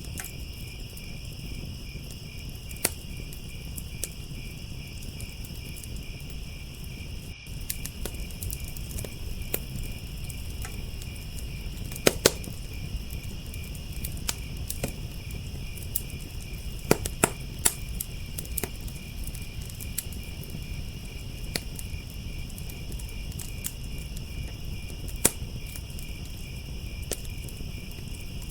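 Wood fire crackling and popping with irregular sharp snaps, a few louder pops about twelve and seventeen seconds in, over a steady, pulsing chorus of crickets and a low rumble of flame.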